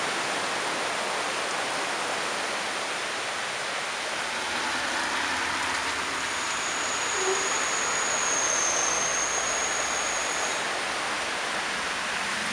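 Heavy rain falling on wet streets, a steady hiss. A faint, thin high whistle runs through the middle of it for about four seconds.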